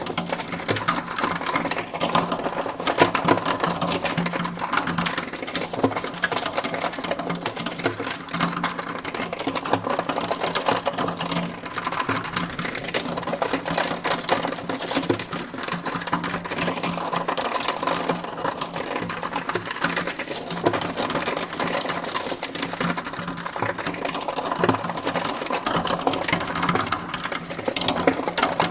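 Steady, fast mechanical clatter over a constant low hum, with a slow sweeping, swirling quality from the panning.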